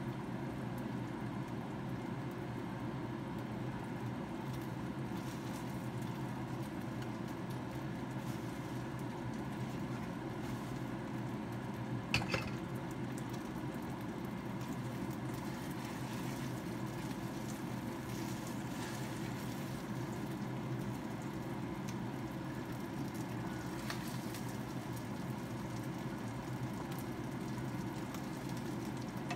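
Boneless chicken thighs frying in a pan with a steady sizzle, turned now and then with a spatula. One sharp clack about twelve seconds in.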